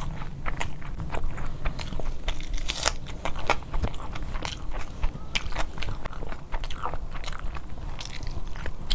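Close-miked chewing of a mouthful of spicy fried rice and chicken eaten by hand: an irregular run of clicks and crackles from the mouth.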